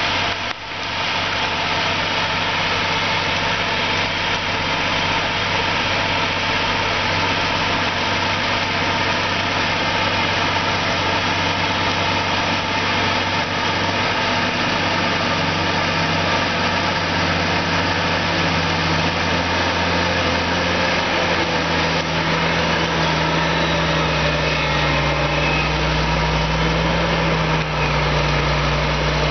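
John Deere 8345R tractor's six-cylinder diesel engine running steadily under load while pulling a plough. Its low hum grows stronger from about twenty seconds in.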